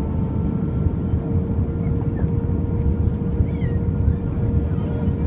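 Steady cabin rumble of an Airbus A320 in descent, engine and airflow noise heard from inside the cabin, with a steady hum running through it.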